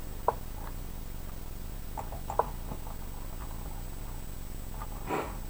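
A few short sharp clicks from moving pieces in an online blitz chess game, one just after the start and a pair around two seconds in, over a low steady hum. A short breathy sound comes near the end.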